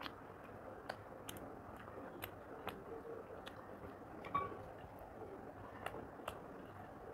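Faint chewing and mouth clicks of a person eating rice and chicken curry by hand, with scattered sharp clicks throughout and a louder one about four seconds in.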